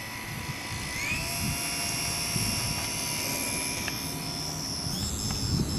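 Electric motor and propeller of a Hobbyzone Super Cub RC plane whining in flight. The whine rises in pitch about a second in, then holds steady.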